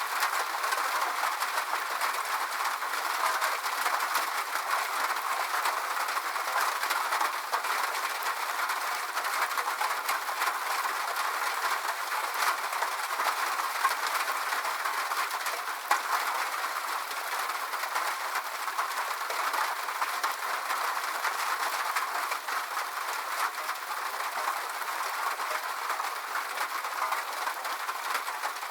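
Steady rain falling, a dense even patter of drops with no low rumble under it.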